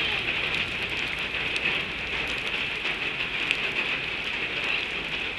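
Steady rain falling and pattering on surfaces, an even hiss with scattered small drop ticks.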